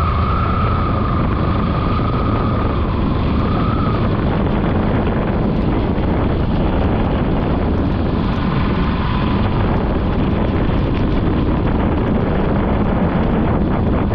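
Floodwater rushing out through the open spillway gates of a dam: a loud, steady rush of water.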